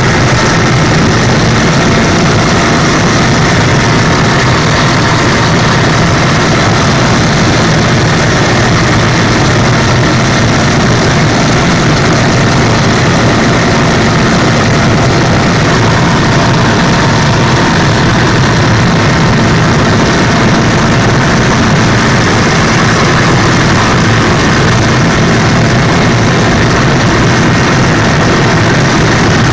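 Helicopter in flight: steady, loud engine and rotor noise that does not change, with a few faint steady tones running through it.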